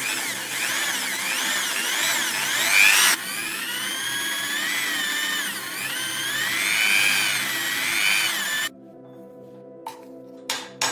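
A handheld power tool running, its motor whine wavering up and down in pitch as the load changes. It starts abruptly, changes character about three seconds in, and stops suddenly near the end. Soft background music plays underneath.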